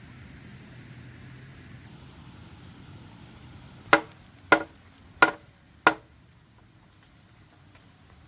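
Four sharp strikes, like hammer blows, about two-thirds of a second apart, starting about four seconds in. They sound over a steady high-pitched whine that fades after the first strike.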